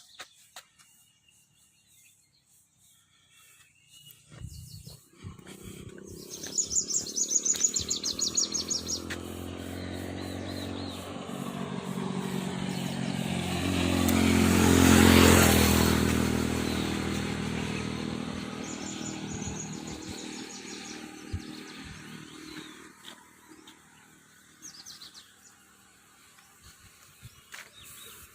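A motor vehicle passes by outdoors, its engine sound growing louder to a peak about halfway through and then fading away. Birds chirp over it, once in the first third and again later.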